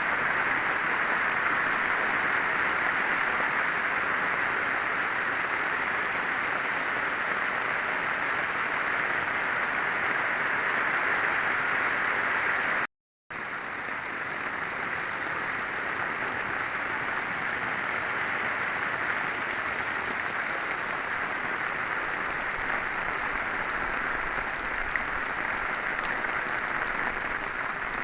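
Heavy rain pouring down steadily in a downpour. About halfway through it cuts out for a moment, then carries on a little quieter.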